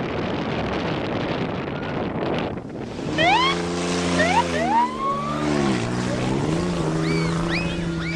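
Wind and a rumbling haze of noise, then about three seconds in an off-road race vehicle's engine comes up loud, revving with several quick climbs in pitch as it shifts up, dipping and climbing again, and holding a steady note near the end.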